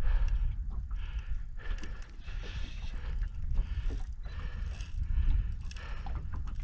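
Fishing reel being wound in while playing a hooked fish: uneven bursts of gear whirring and clicking over a steady low rumble.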